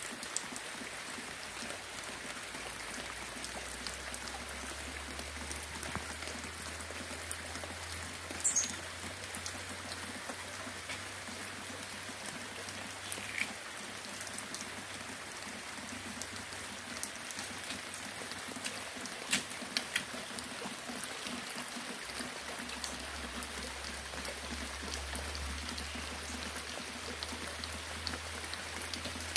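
Steady rain, a continuous hiss with many small drops ticking on a surface and a few louder single drops standing out now and then.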